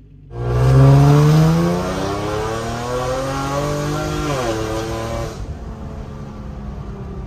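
Hyundai Genesis Coupe 3.8 V6 with a Solo Performance cat-back exhaust, heard from inside the cabin on a hard acceleration test pull. The engine note climbs steeply, dips briefly at a gear change about four seconds in, then eases off to a lower, steady drone after about five seconds.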